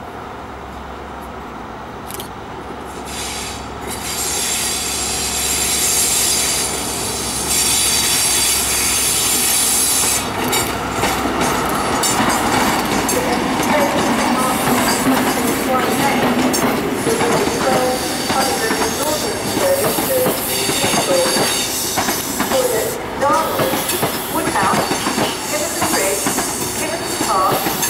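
CrossCountry HST with its Class 43 diesel power car drawing slowly into the station: the power car's engine hum swells over the first few seconds, then from about halfway the coaches' wheels squeal again and again on the curving track, with scattered clicks over the rail joints.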